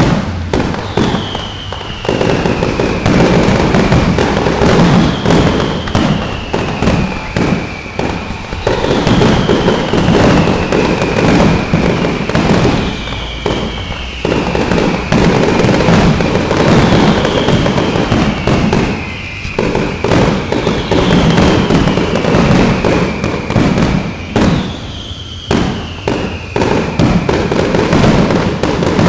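Aerial fireworks display: a near-continuous barrage of loud bangs from bursting shells and dense crackling, with brief lulls every few seconds. A falling whistle-like tone recurs about every four seconds over the barrage.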